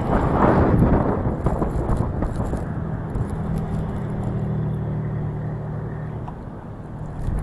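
Strong wind buffeting the microphone, with a gust in the first second or so, over the steady hum of the car's engine and road noise.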